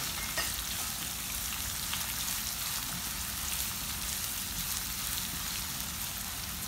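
Chopped spring onions frying in hot oil in a pan while being stirred: a steady sizzling hiss dotted with small crackles.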